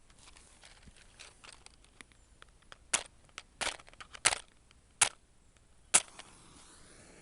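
A hunting match is struck several times against the striker on its box: five sharp scrapes in about three seconds, the last near the end. A faint, steady hiss follows as the match burns.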